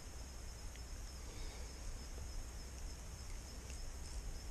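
Faint outdoor background: a steady high-pitched insect chorus over a low rumble, with a few soft clicks.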